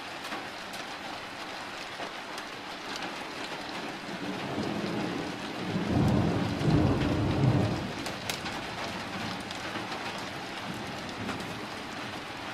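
Steady rain, easing off, with scattered drops ticking. A low rumble of thunder rolls in about halfway through and lasts two to three seconds, the loudest sound here.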